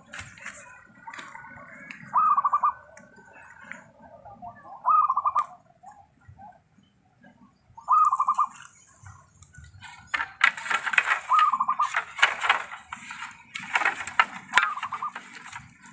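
Zebra dove (perkutut) calling: short trilled coos repeated about every three seconds, five times. From about two-thirds of the way in, a busy rustling overlaps the calls.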